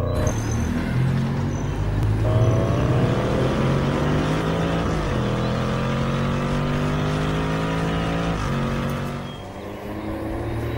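Car engine accelerating hard, its pitch climbing steadily and dropping back twice as it shifts up through the gears, easing off near the end.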